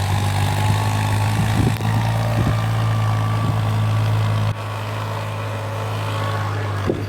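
Farm tractor engine running steadily as it digs up a field, with a steady low hum. The sound drops in loudness suddenly about four and a half seconds in.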